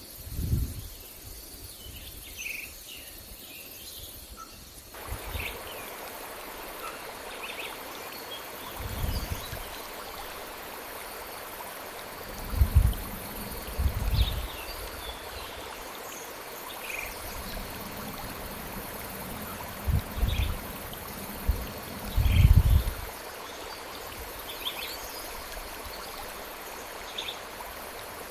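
A stream flowing steadily, coming in about five seconds in, with scattered short bird chirps and a faint steady insect drone. Several low thumps stand out above it, the loudest events, two of them close together twice.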